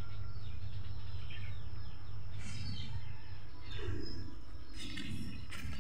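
Small birds chirping in short falling notes every second or so, over a steady low rumble and a thin, steady high whine. Near the end come a few bursts of hiss.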